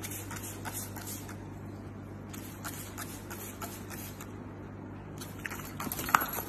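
Hand-held plastic trigger spray bottle misting a potted palm: faint clicks of the trigger and short sprays over a steady low hum, with a sharper click about six seconds in.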